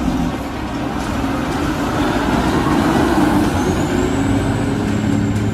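Logging truck's diesel engine running steadily with a deep drone, and a faint high whine that rises partway through and then holds.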